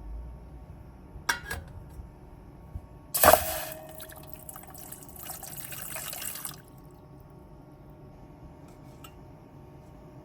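A sharp clink with a brief ring, then liquid pouring for about three seconds. A few small clicks of kitchenware follow.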